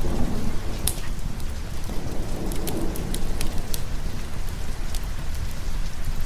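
Steady rain with a low, continuous rolling thunder rumble underneath, and scattered sharp clicks through it.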